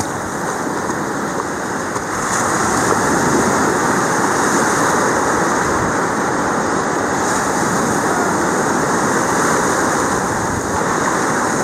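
Ocean surf washing onto the beach: a steady rush of breaking waves that grows louder about two seconds in.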